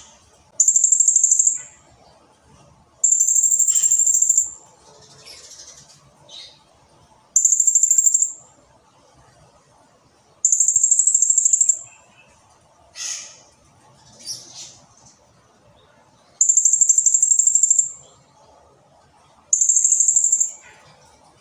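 Blue-crowned hanging parrot (serindit) calling: six long, rapid, high-pitched trills of a second or so each, repeated every few seconds, with fainter short chirps in between.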